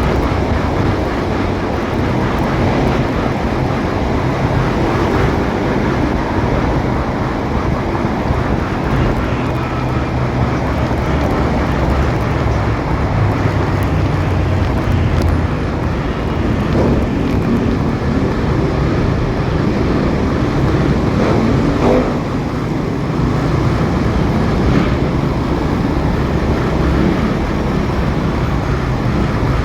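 A motorcycle riding in city traffic: a steady, loud low rumble of the engine and road and wind noise. A faint engine note rises and falls about two-thirds of the way through.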